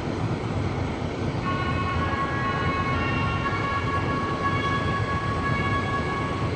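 Diesel-hydraulic locomotive and its train running into the station with a steady low running noise. About a second and a half in, several high steady squeals of the wheels and brakes set in one after another and hold nearly to the end as the train slows.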